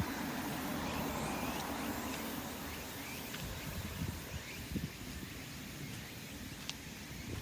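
Outdoor ambience: a steady low engine hum that fades over the first few seconds, with a few faint chirps and some soft low knocks around the middle.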